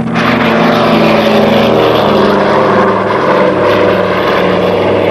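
Piston-engined propeller aircraft flying past loud, its engine note dropping in pitch about two seconds in as it goes by.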